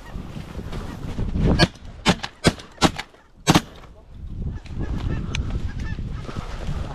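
A quick volley of about five shotgun shots within two seconds, starting about a second and a half in, fired at waterfowl, with geese honking around it.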